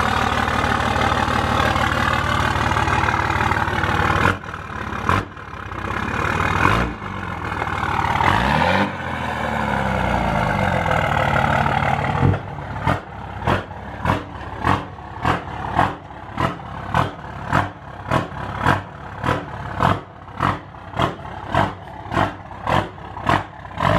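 Straight-piped pickup truck engine running loud through an open exhaust. It idles steadily at first, then the revs change and rise and fall once. From about halfway it pulses in a quick, regular rhythm of roughly two surges a second.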